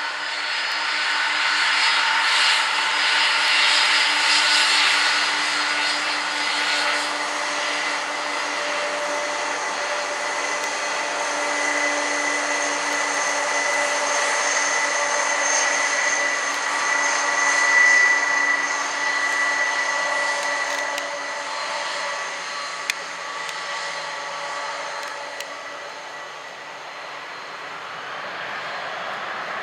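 Boeing 767-300ER's two Pratt & Whitney PW4060 turbofans at takeoff thrust: a steady jet roar with a high whine, loudest in the first few seconds and again about 18 seconds in, then slowly fading.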